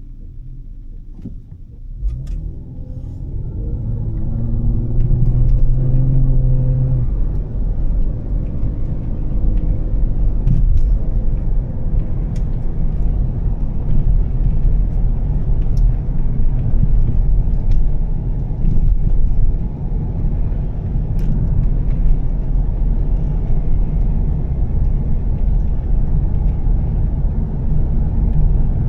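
Volvo S60 T6's engine, with a Heico aftermarket exhaust, accelerating about two seconds in, its pitch rising for several seconds. It then settles into steady cruising with engine and tyre noise.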